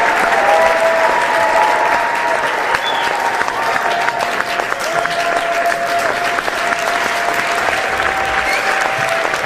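A large crowd applauding steadily and cheering, with long held shouts over the clapping.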